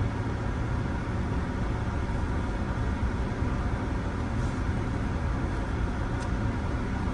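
Steady low rumble and hiss of a car heard from inside the cabin, with the engine running.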